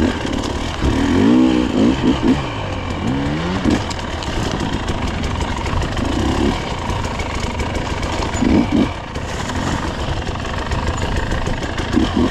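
Dirt bike engine revving up and down in repeated bursts, the pitch rising and falling several times as the rider picks a way through rocks.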